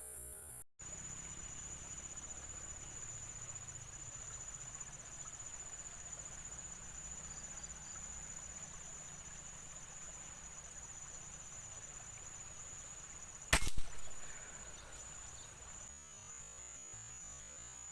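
A PCP air rifle fires once, a sharp crack about three-quarters of the way through. Under it is a steady high buzz of insects.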